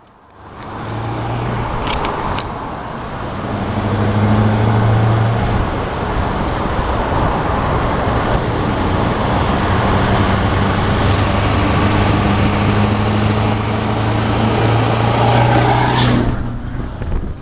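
Scania R560 truck's V8 diesel engine running with a steady low drone. Its pitch dips slightly about five seconds in, and the sound cuts off abruptly near the end.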